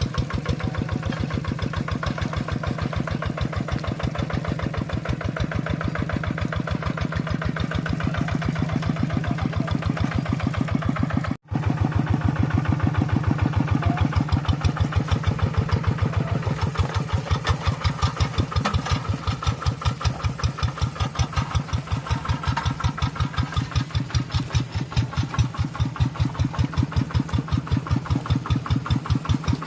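Tractor engine running steadily with an even, rapid chugging pulse. The sound drops out for an instant about eleven seconds in, then carries on.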